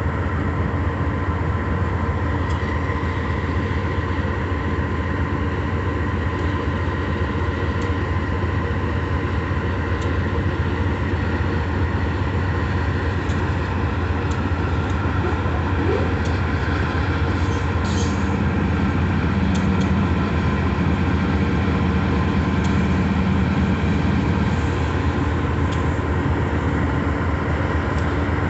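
Diesel locomotive running with a steady low drone and several steady higher tones. A few short clicks and squeaks break in, one more distinct about two thirds of the way in.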